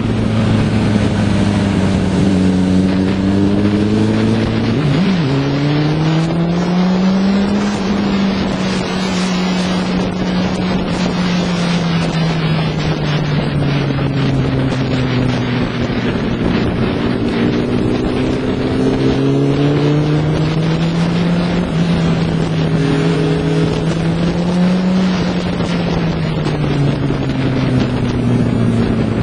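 Motorcycle engine running under way, its pitch rising and falling slowly with the throttle, with a quick rev about five seconds in, over steady wind rush on the microphone.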